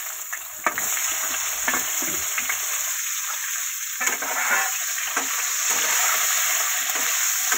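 Eggplant pieces sizzling as they shallow-fry in oil in a wok, with a steady high hiss. A metal spatula clicks and scrapes against the pan now and then as the pieces are turned.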